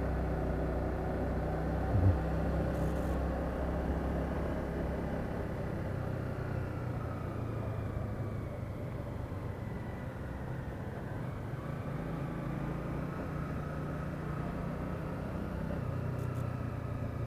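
Small motorcycle engine running at riding speed in town, with road and wind noise; its note eases down in the middle and picks up again near the end. A short knock about two seconds in.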